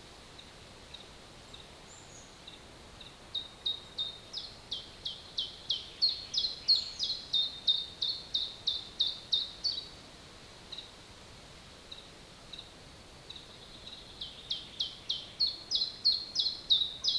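A songbird singing a long run of quick, high, downslurred notes, about four a second, growing louder as it goes. The bird sings a second run starting near the end. A faint steady forest hiss lies underneath.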